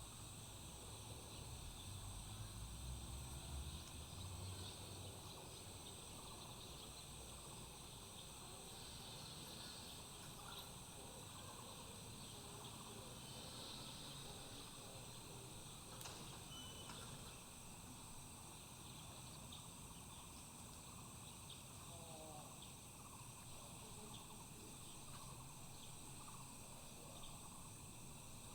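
Faint outdoor ambience of an insect chorus: a steady, high-pitched drone that never lets up. A low rumble sits under it for the first few seconds, and a few faint bird chirps come through later on.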